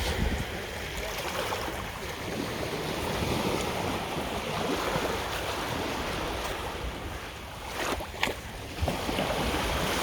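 Sea waves washing onto a sandy beach, with wind buffeting the microphone; a few short knocks come about eight seconds in.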